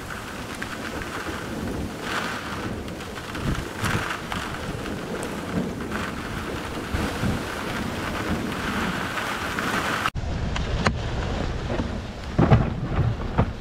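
Steady rain falling on the car and the yard during a thunderstorm, with low swells of distant thunder. About ten seconds in the sound changes abruptly to a duller, closer recording with heavier low rumbling.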